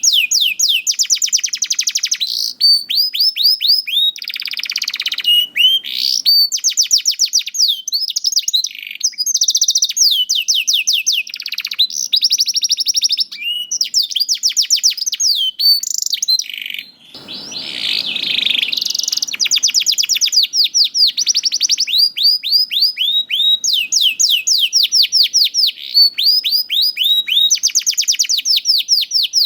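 Domestic canary singing a continuous, loud song of fast trills: rows of quick repeated sweeps changing from phrase to phrase. About 17 seconds in there is a short break with a brief rush of noise.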